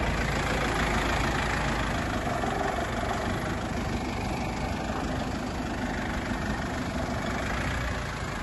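GAZ Sobol 4x4 van's engine idling steadily.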